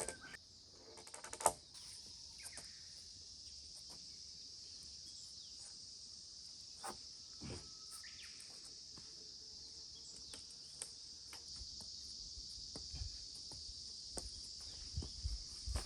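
Insects trilling in a steady, high continuous chorus, with scattered knocks and clicks over it; the sharpest clack comes about a second and a half in.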